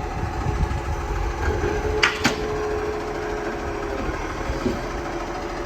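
Garbage truck engine rumbling, with two sharp bangs about two seconds in and a steady whine for a couple of seconds after them.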